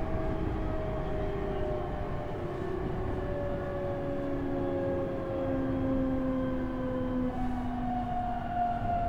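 Toyo Denki GTO-VVVF inverter and traction motors of a JR East E127 series electric train whining, several tones stepping slowly down in pitch as the train brakes. Near the end one tone jumps up higher and starts falling again. Wheel and rail rumble runs underneath.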